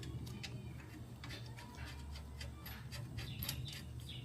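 Scattered light metallic clicks and ticks as brake-pedal parts and hardware are handled and fitted on the motorcycle, over a low steady hum.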